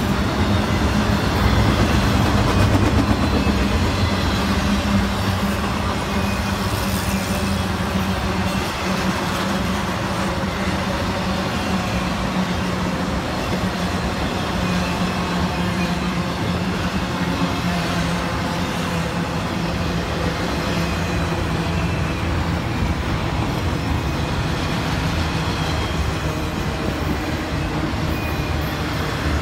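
Intermodal freight cars, container well cars and flatcars carrying highway trailers, rolling past: the steady noise of steel wheels running on the rails, with no locomotive in it.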